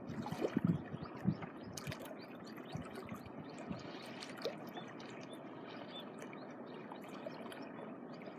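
Small waves lapping and trickling at the shoreline, a steady wash of moving water. A few soft low knocks come in the first second or so.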